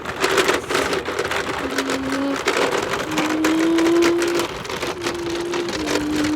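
Heavy rain falling and pattering on surfaces. Over it, a series of held notes steps up and down in pitch, each lasting about a second.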